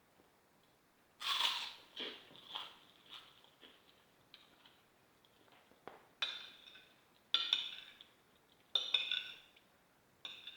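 Cutlery scraping and clinking against a plate in a series of separate strokes with pauses between them, the loudest about a second in.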